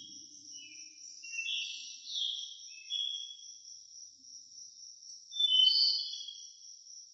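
A small yellow-bellied flycatcher calling: short, high chirping notes in clusters about one to three seconds in, and a louder burst of chirps near the end, over a steady high-pitched hiss.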